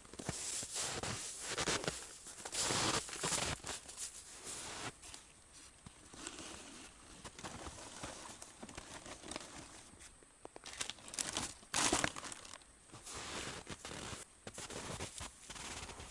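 Irregular rustling and crinkling handling noises, in uneven bursts, with the loudest ones about three seconds in and again about twelve seconds in.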